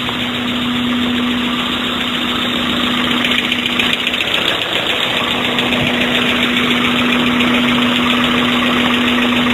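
1994 Mazda MX-5 Miata's BP-ZE four-cylinder engine idling steadily, heard close to the open engine bay.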